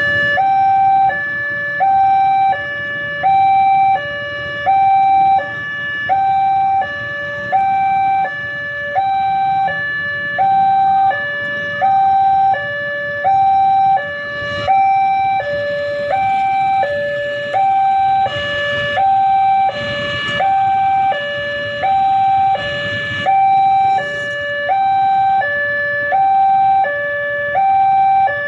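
Two-tone emergency siren alternating steadily between a high and a low note, each held for just under a second, at an even loudness. Brief rushes of hissy noise come and go in the middle.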